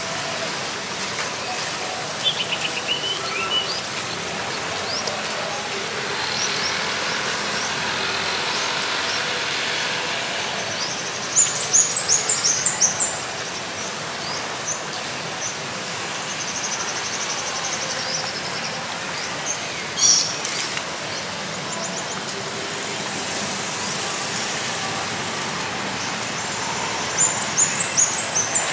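Steady background hum of traffic with a small bird calling over it in two quick runs of high chirps, one about halfway through and one near the end, and a few scattered single chirps and trills in between.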